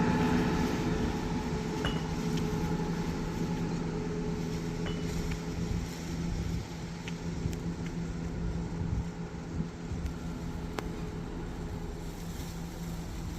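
Diesel train engine running at the platform, its steady hum slowly fading, with a few faint metallic clinks.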